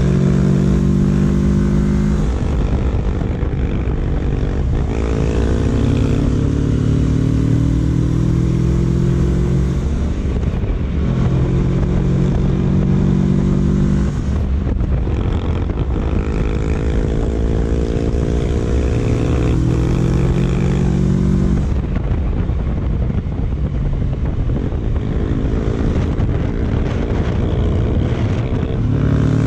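Kawasaki Versys 650's parallel-twin engine running at road speed. Its pitch climbs steadily several times as it pulls, then drops back and climbs again, over steady wind rush.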